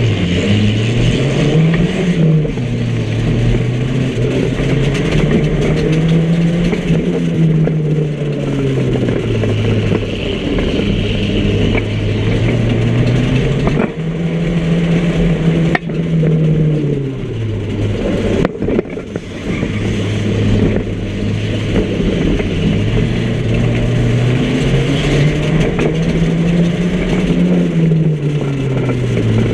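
Micro banger destruction-derby car's engine heard from inside the cabin, revving up and falling back about four times as it is driven round the track. A few sharp knocks come through over it.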